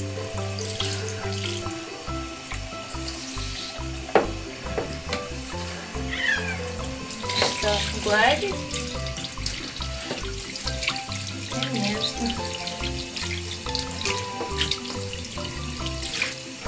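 Water spraying from a handheld shower head onto a cat's wet fur and into the bathtub, a steady hiss and splatter, with background music over it.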